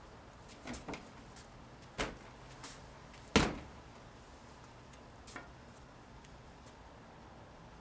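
Wooden jo staff being swung and handled in strike practice: a handful of scattered sharp knocks and thuds, the loudest about three and a half seconds in.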